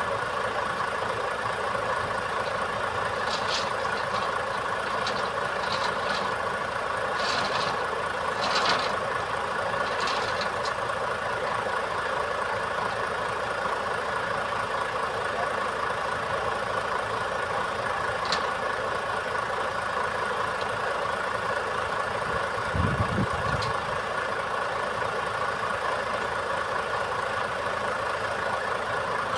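Heavy diesel engine running steadily at idle, with a few short knocks early on and one low thump a little after twenty seconds.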